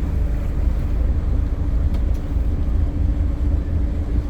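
Tour boat's engine running steadily under way, a constant low rumble with a steady hum.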